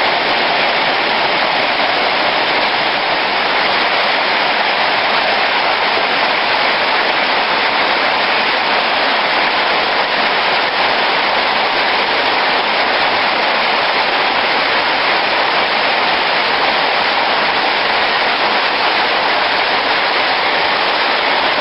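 Hard rain falling steadily, an even unbroken hiss.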